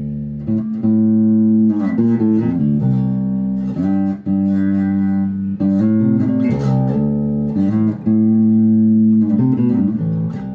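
Epiphone Grabber electric bass played through an Aguilar Tone Hammer preamp with its AGS switched off: sustained low notes that ring for a second or two each, changing pitch in a slow line.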